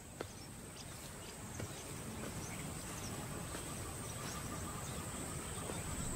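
Outdoor wildlife ambience: a steady high-pitched insect drone over a low rustling background, with a few faint ticks, growing slightly louder.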